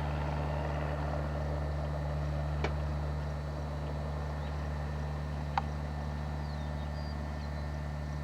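Steady, unchanging drone of a small airplane's engine in flight, with two faint clicks a few seconds apart.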